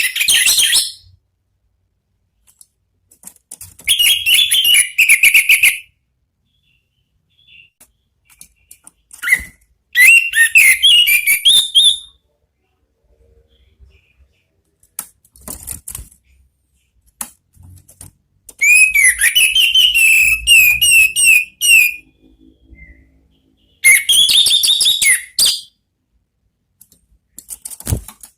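Orange-headed thrush singing in separate phrases of one to three seconds with pauses between them. Each phrase mixes clear whistled notes with rapid, high twittering.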